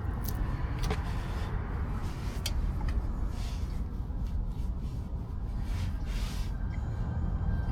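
A steady low rumble, with a few light metallic clicks and soft scraping as a front axle shaft is slid into the axle housing.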